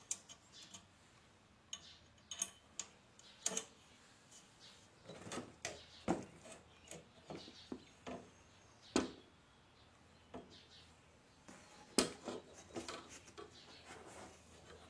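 Sickle bar knife sections and rivets being handled and set in a lever-operated riveting tool: scattered, irregular metal clicks and clinks, with the sharpest knocks about nine and twelve seconds in.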